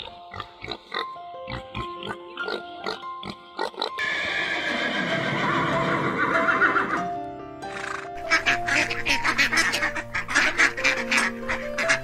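Light background music with farm animal sounds over it: short pig grunts in the first few seconds, then a long falling horse whinny about four seconds in. Quick repeated animal calls follow from about eight seconds in.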